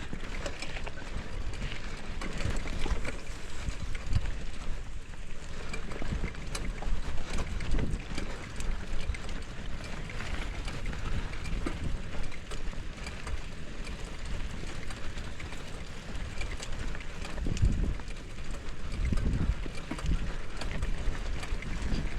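Wind buffeting the microphone over the rumble of a mountain bike riding a dirt trail, with frequent small clicks and rattles.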